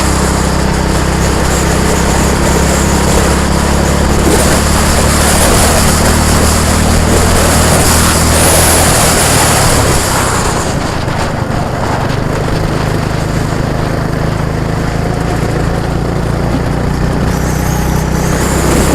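An engine running steadily at an even speed, with a loud rushing noise over it.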